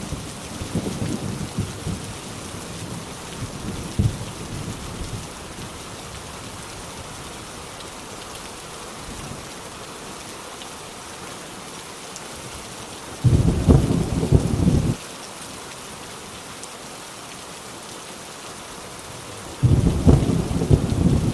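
Heavy rain falling steadily on a tin roof, with thunder rumbling at first and dying away, then two short, loud bursts of thunder, one about two-thirds of the way through and one near the end.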